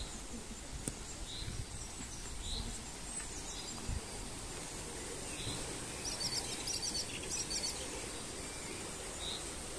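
Small birds calling over a steady outdoor background hum: short high notes recurring about once a second, with a quick run of high chirps from about six to eight seconds in.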